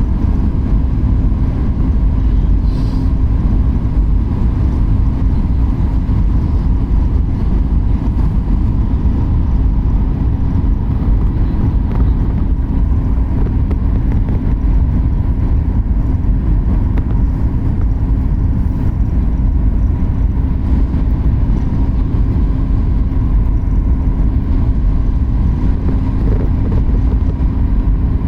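Steady jet airliner cabin drone: low engine and airflow rumble with a constant hum over it.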